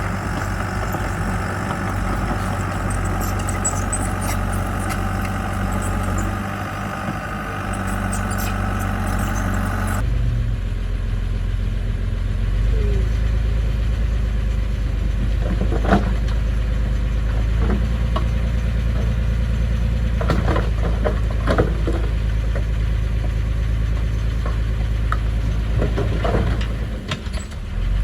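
Diesel engine of heavy construction equipment running steadily. The sound changes abruptly to a deeper drone about ten seconds in, with a few short knocks or clanks over it in the second half.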